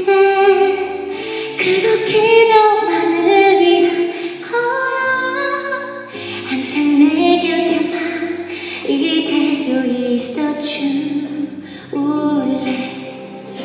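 A female vocalist singing a slow song in long held notes, accompanied by a live orchestra.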